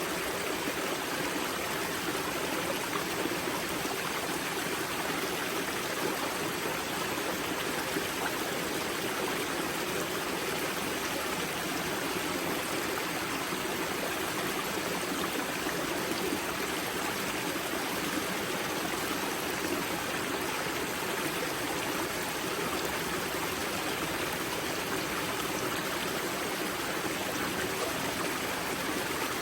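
Spring-fed mountain river at its wellhead, water rushing and splashing steadily over rocks.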